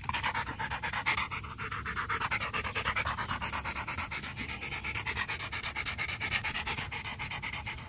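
A dog panting fast and evenly, several breaths a second, close to the microphone.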